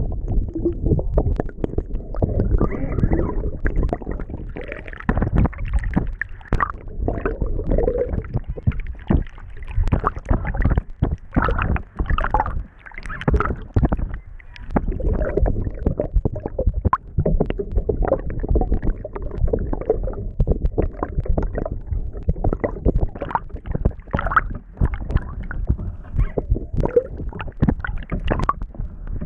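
Water rushing and gurgling past an underwater camera on a sailing boat under way: a continuous low rumble broken by many irregular knocks and sloshes.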